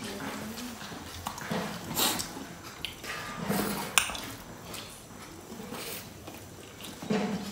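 Close-miked eating sounds of two people eating rice and dal by hand: wet chewing and lip smacks, with scattered sharp clicks, the sharpest about four seconds in.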